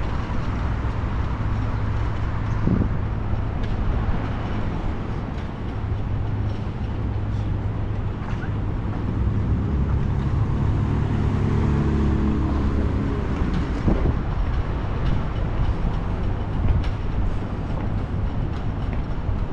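City street traffic: a steady rumble of passing cars, with one vehicle's engine hum rising and fading about halfway through, and a few sharp knocks.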